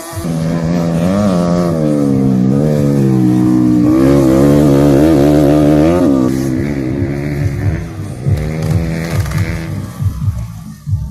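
Motocross bike engine running hard, its pitch wavering up and down with the throttle; after about six seconds it drops to quieter, uneven running.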